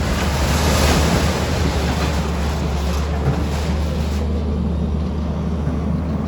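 A steady low rumble with noisy rushing on top, like wind buffeting the microphone; the rushing swells in the first second and eases off after about four seconds.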